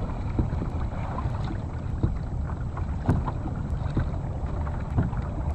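A Hobie pedal kayak moving on the water: irregular light knocks and splashes against the hull, over a steady rumble of wind on the microphone.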